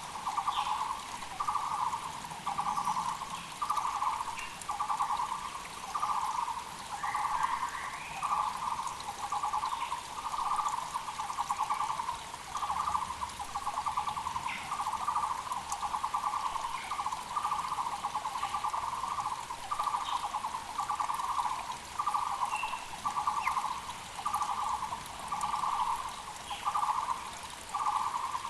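Taiwan barbet (Muller's barbet) calling an unbroken, steady series of low notes, about one a second. A mountain creek's steady rush runs beneath, with faint short chirps of smaller birds.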